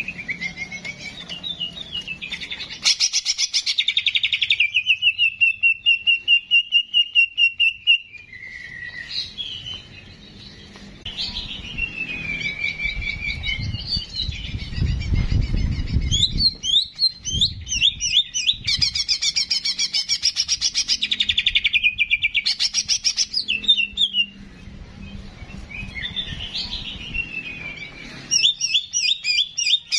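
Ki jenggot (cicak jenggot) songbird singing fast chattering trills and short gliding whistled phrases in bursts of a few seconds, with brief pauses between.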